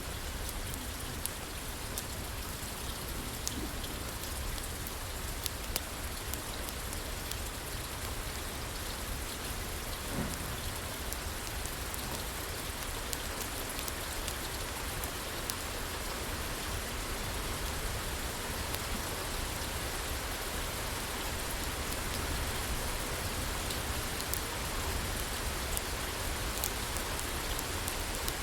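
Steady rain falling on a roof, with a constant low rumble underneath and scattered sharp crackles from a wood fire.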